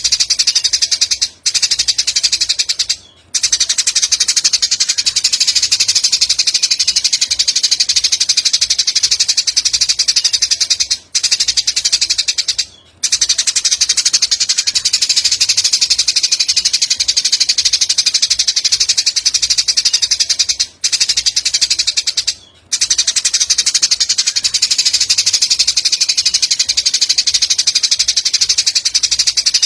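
A continuous high, rapid buzzing trill from a songbird-training (masteran) recording, made of very fast pulses. It breaks off briefly twice in quick succession about every ten seconds, as if the recording loops.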